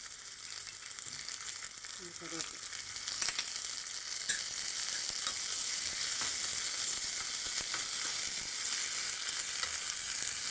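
Hot oil sizzling in a small pan as chopped ginger and green chili fry in a mustard-seed and cumin tempering, with a few scattered clicks from stirring. The sizzle grows louder over the first few seconds, then holds steady.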